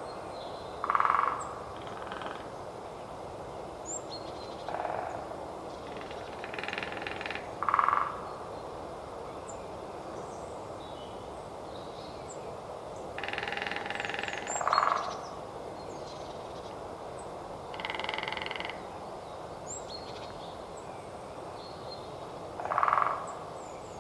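Lesser spotted woodpecker drumming: short, rapid rattling rolls of bill strikes on wood, four loud rolls several seconds apart, with fainter rolls between them. Faint small bird calls in the background.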